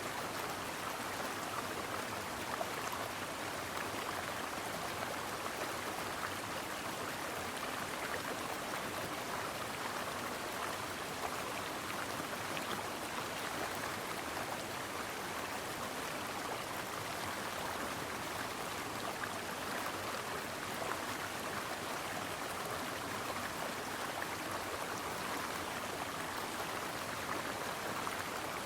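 Stream water running over rocks, a steady babbling rush with no pauses.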